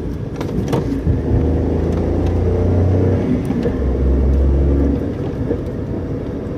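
Car engine and road noise heard from inside the cabin during a braking heel-and-toe downshift from fourth gear. There are a few sharp clicks in the first second, then the engine note swells for a few seconds mid-way as the throttle is blipped before it settles back.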